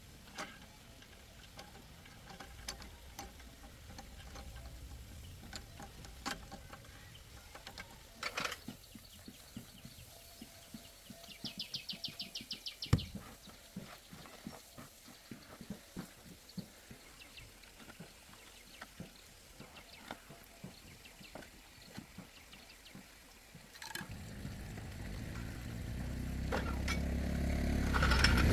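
Scattered light clicks and knocks of hand work on metal parts, with a brief fast ratchet-like rattle and one sharp knock near the middle. About four seconds before the end an engine starts running and grows steadily louder.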